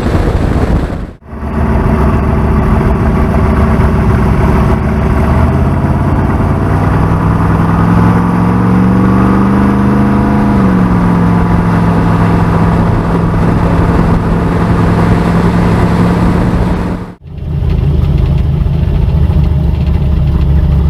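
Vehicle engine idling, its pitch climbing slowly for a few seconds in the middle and then dropping back to a steady idle. The sound cuts out sharply twice, about a second in and near the end.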